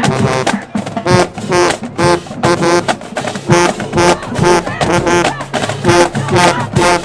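High school marching band playing: brass over drumline percussion in a run of short, repeated accented notes.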